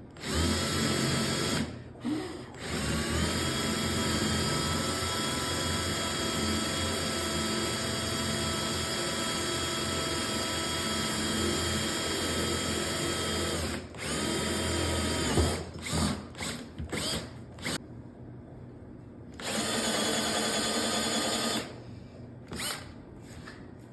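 Handheld electric drill boring angled leg holes into a wooden chair seat. The motor spins up after a brief stop and runs steadily for about eleven seconds, winds down, then runs in a few short bursts and one more two-second stretch near the end.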